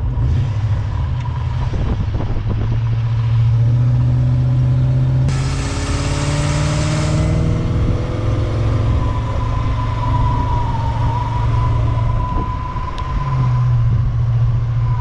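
V8 engine of a 1968 Buick Skylark convertible driving with a steady low rumble, revving up about three and a half seconds in. There is a burst of hiss during the rev.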